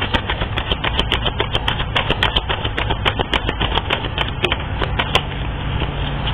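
Cards being shuffled and handled: a rapid, irregular run of light clicks and snaps, over a steady low hum.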